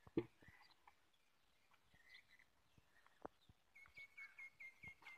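Near-silent yard with a sharp knock just after the start and a few faint clicks, then, from a little past halfway, a bird repeating a short chirp about five times a second.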